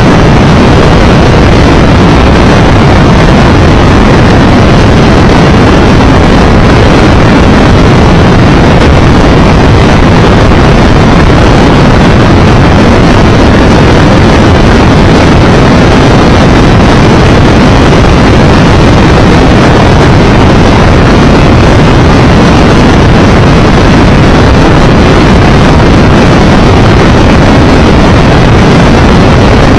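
Steady, very loud wind roar buffeting the microphone while riding a Triumph Tiger Explorer 1200 motorcycle at road speed, with no distinct engine note standing out.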